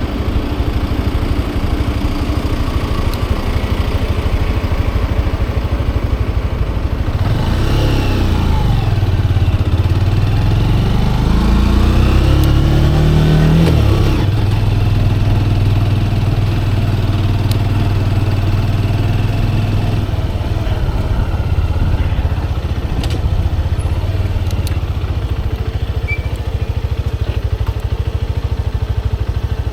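Motorcycle engine running steadily. From about seven seconds in its pitch falls and then climbs for several seconds, stops abruptly about halfway, and settles back into a steady run.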